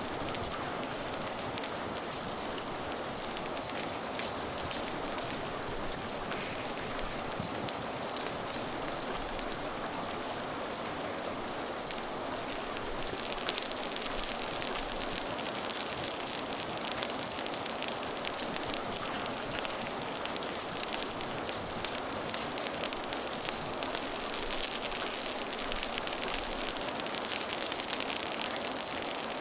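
Steady rain falling, with the fine crackle of a wood fire mixed in. The rain's hiss grows a little louder and brighter about halfway through.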